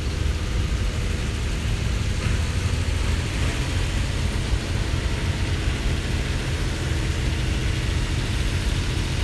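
Antique tractor engine running steadily with a low, even rumble.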